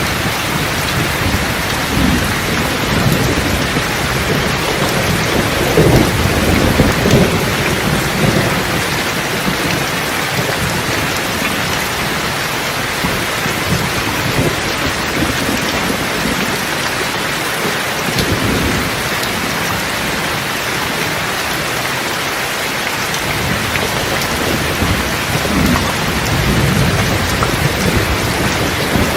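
Steady rain falling, with thunder rolling low beneath it. The rumbles swell several times, about six seconds in, again around eighteen seconds, and once more near the end.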